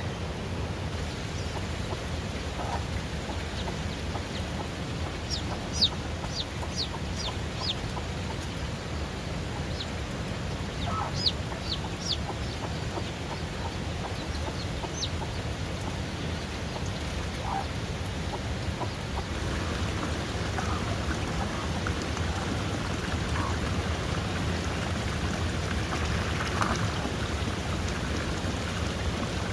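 Steady hiss of rain with newly hatched chicks peeping in short runs of high, falling calls, and chickens clucking now and then.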